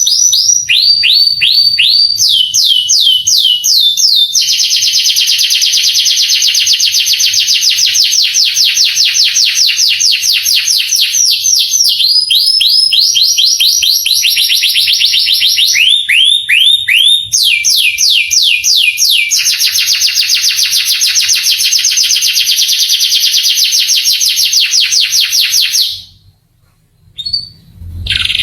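A male domestic canary singing a long, continuous song of rapid trills: phrases of quickly repeated falling whistled notes, each phrase changing to a new note type every few seconds. The song breaks off briefly near the end, with one short note in the gap, then starts again.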